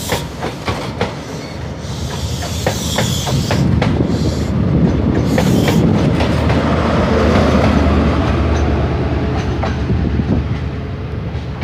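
A passenger train running past, its wheels clicking over rail joints above a low rumble. The sound builds to its loudest midway, then eases slightly.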